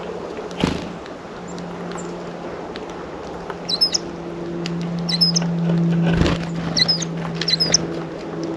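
Small songbirds at a seed feeder: scratching and pecking clicks, with two thumps about half a second in and near six seconds, and short, sharp high chirps repeated four times in the second half, over a steady low hum.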